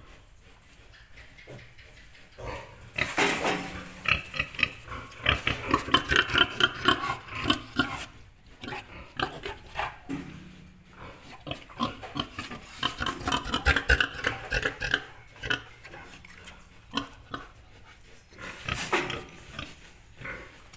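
Nursing piglets squealing and grunting in rapid, dense bouts as they compete for the sow's teats. There are two long bouts, with a shorter burst near the end.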